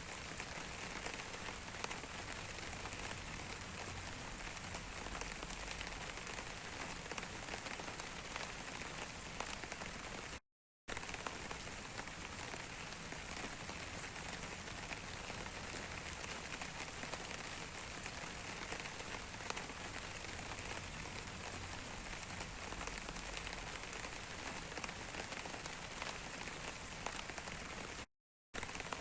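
Steady rain falling on a surface: a dense, even hiss of many drops with fine clicks. It drops out twice to dead silence for a fraction of a second, about ten seconds in and again near the end.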